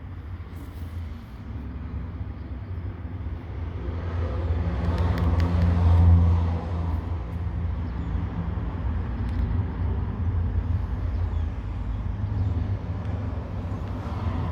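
A motor vehicle's engine droning, growing louder to its peak about six seconds in, then dropping back to a steady lower rumble.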